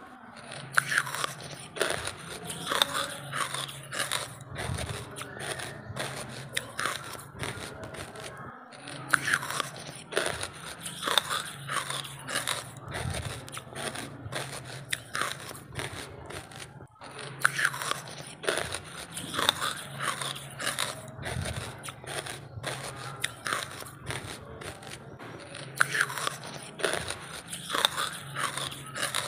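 Close-miked biting and chewing of dry charcoal, with bout after bout of sharp cracking crunches.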